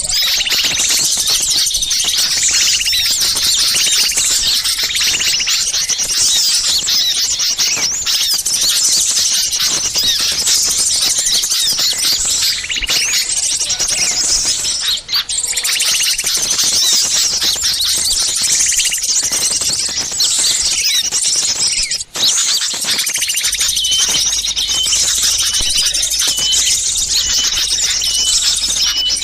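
A noisy chorus of many small birds chirping and calling over one another, as used on bird-lure recordings. The sound is high-pitched and continuous, with two brief drop-outs about halfway through and a short note repeated over and over near the end.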